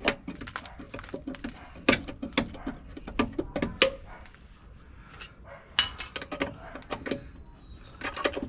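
Irregular clatter of sharp knocks and clanks as rusted car body sheet metal is worked loose and handled, with a brief thin squeak about seven seconds in.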